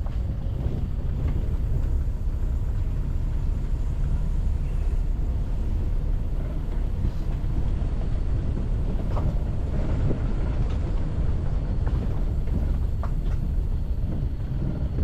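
A moving vehicle's steady drone, with wind rumbling on the microphone.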